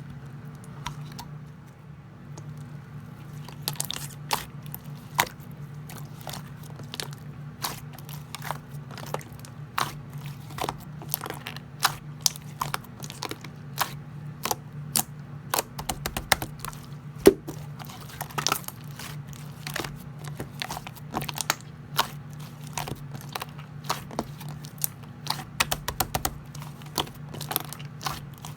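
Slime being pressed and squished by hand, giving irregular sharp clicking pops, several a second, from about three and a half seconds in. A steady low hum runs underneath.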